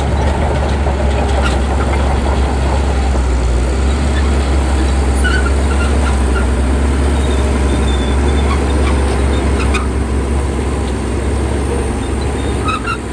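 Shantui bulldozer's diesel engine running steadily under load, a continuous deep rumble.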